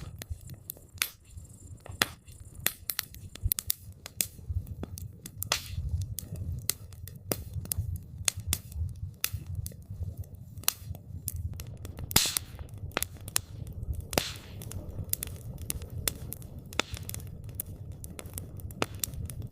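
Wood campfire crackling: irregular sharp pops and snaps over a steady low rumble, with a short hiss twice in the second half.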